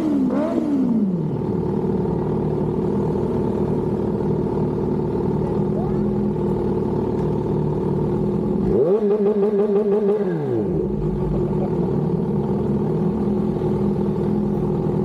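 Motorcycle with a loud exhaust idling steadily. It settles back from a rev at the start and is revved again about nine seconds in, held for a second or so before dropping back to idle.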